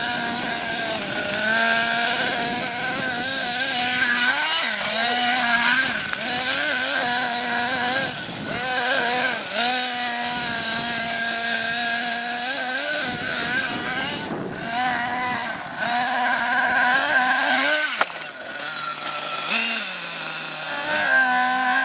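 Small nitro glow engine of a CEN Genesis GST 7.7 RC monster truck running, idling steadily for stretches and revving up and back down again and again. About eighteen seconds in, its pitch drops lower for a couple of seconds before it picks up again.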